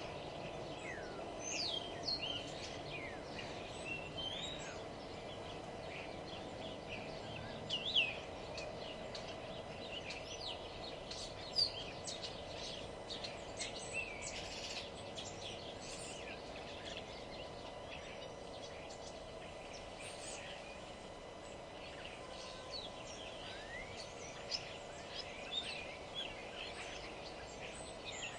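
Several small songbirds chirping and singing in short, quick calls and rising or falling whistles, now sparse, now overlapping, over a steady low hum of background noise.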